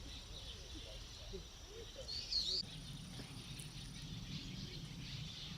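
A small bird gives a short, high chirping call about two seconds in, the loudest sound here, over a faint steady outdoor hiss and a low rumble.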